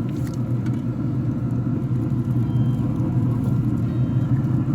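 Pellet grill running, its fan giving a steady low hum, with a few faint clicks at the start.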